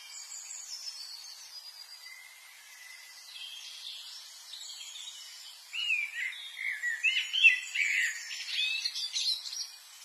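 Birds chirping and calling: many short high chirps, then louder, warbling calls from about six seconds in.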